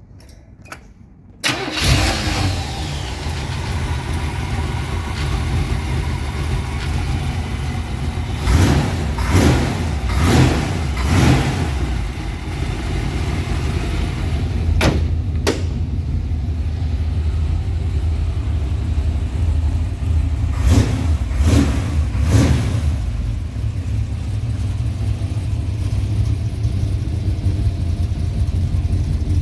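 1979 Chevrolet Camaro's engine starting about a second and a half in, then idling, with short blips of the throttle in two groups: three or four near the middle and three more about two-thirds of the way through.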